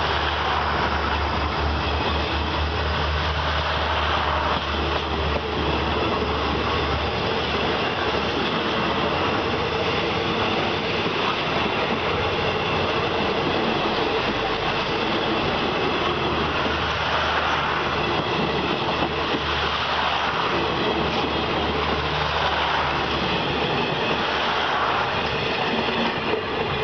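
Passenger train coaches rolling past close by on the rails at low speed as the train pulls out of a station, a steady rumble and clatter of wheels on track.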